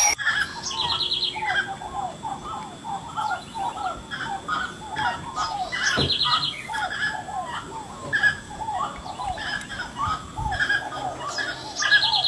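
Birds calling: a steady run of short down-slurred whistled notes, several a second, with a fast, high, rattling trill about every six seconds.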